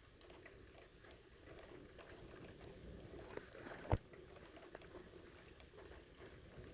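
Faint patter of light rain during a thunderstorm, with a single sharp click a little before four seconds in.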